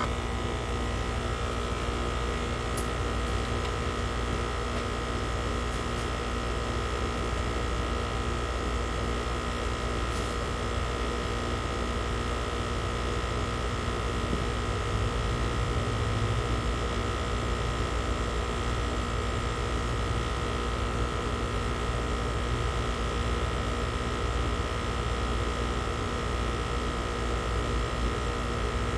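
Steady electric hum of a running air conditioning system, a constant drone with several held tones and no change in level.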